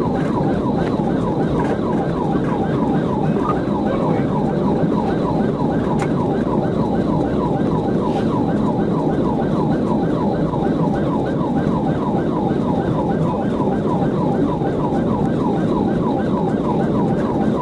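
Police car siren in rapid yelp mode, its pitch sweeping up and down about four to five times a second, over the patrol car's engine and road noise at high pursuit speed.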